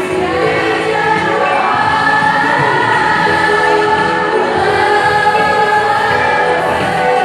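A mixed choir singing in harmony, with long held notes.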